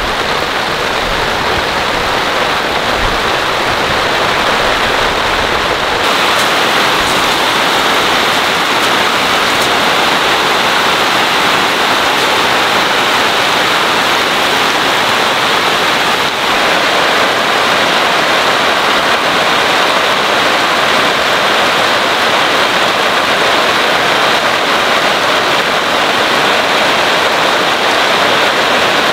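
Heavy rain pouring down steadily in thick drops, falling straight with no wind, a loud even hiss that barely changes.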